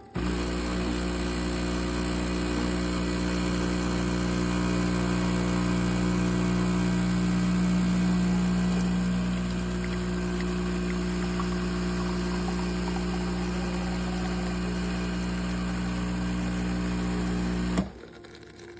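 KitchenAid semi-automatic espresso machine running with a loud, steady mechanical hum that starts abruptly, eases slightly about halfway through and cuts off suddenly near the end.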